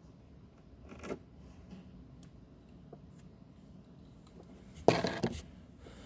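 Cutlery and dishes clattering while eating: a small scrape about a second in, then a short cluster of quick knocks of a utensil against a dish near the end.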